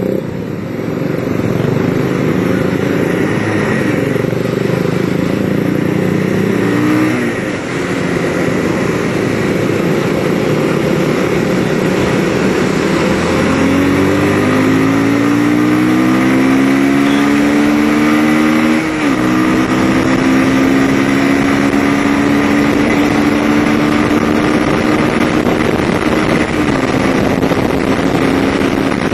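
Bajaj Pulsar 200cc single-cylinder motorcycle engine heard while riding: its pitch climbs steadily under acceleration, drops sharply at a gear change about two-thirds of the way in, then holds nearly steady at cruising speed, over a constant rush of noise.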